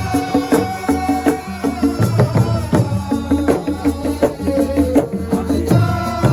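Live band music in the Assiko style: fast, dense hand percussion and rattles under a repeating melodic line from a pitched instrument.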